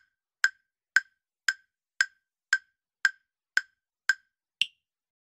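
Countdown-timer tick sound effect: sharp wood-block-like ticks about two a second, ten in all, the last tick higher in pitch, marking the end of the answer time.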